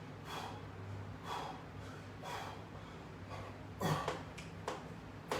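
A person breathing hard with exertion, short noisy breaths about once a second, during resistance-band pull-downs, over a steady low hum.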